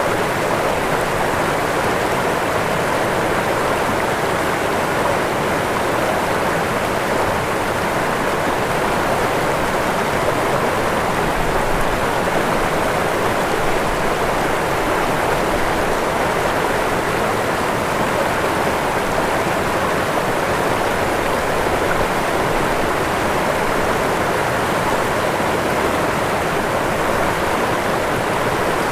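Waterfall: water falling and rushing in a steady, unbroken roar of white water.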